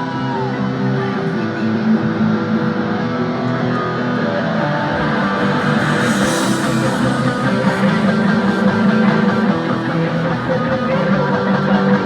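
Live rock band playing the opening of a song, led by guitar, with deep bass coming in about five seconds in.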